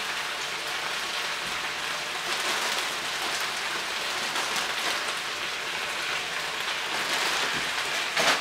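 Chicken and fresh stir-fry vegetables sizzling steadily in a hot frying pan on a gas burner, with a short louder burst of sizzle just before the end.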